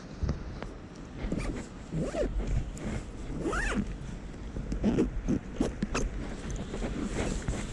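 A zipper being pulled in several short strokes, each a quick rasp that rises and falls in pitch.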